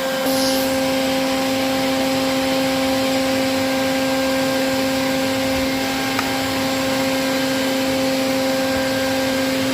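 A vacuum motor running steadily with a constant hum and whine, of the kind used to suck live bees out of a hive cavity.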